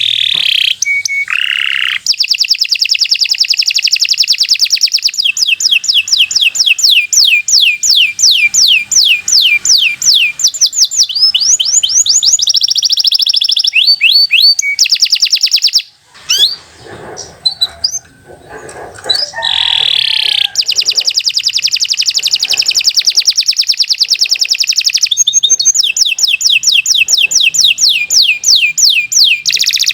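Domestic canary singing a long, continuous song of rapid runs of repeated falling whistled notes, several per second, with a brief softer break a little past halfway.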